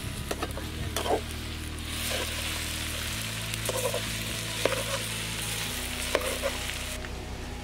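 Chopped okra sizzling in hot oil in a steel kadai, stirred with a metal spatula that scrapes and clicks against the pan every second or so. The sizzle fades near the end.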